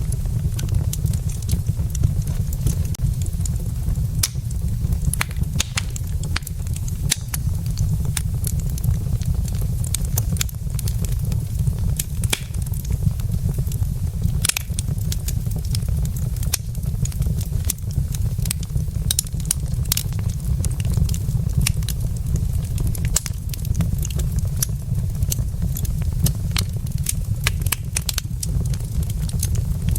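Burning wood logs in a fireplace crackling, with frequent irregular sharp pops and snaps over a steady low rumble.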